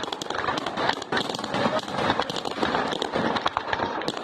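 Fireworks display: a dense, continuous crackle of many rapid small bangs.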